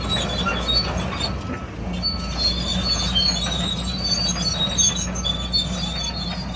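Crawler bulldozer running steadily, with a constant low engine hum and a string of short high-pitched squeals from its steel tracks.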